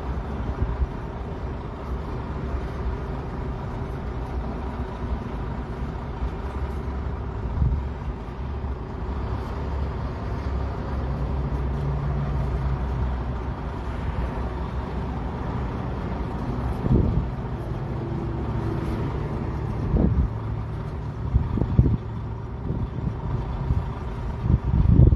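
Heavy diesel equipment engines running with a steady low rumble, the engine note rising for a couple of seconds near the middle. Several sharp knocks come in the later part.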